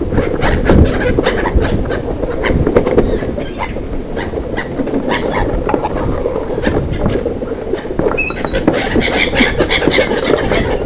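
A few short bird chirps about eight and ten seconds in, over a loud rumble with irregular clattering and knocking throughout.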